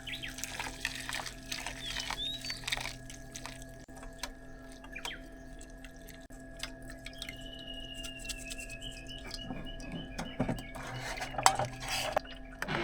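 Scattered light clicks and clinks of small objects being handled, over a steady faint hum, with a few short bird chirps and a falling whistled call in the middle; a louder clatter near the end.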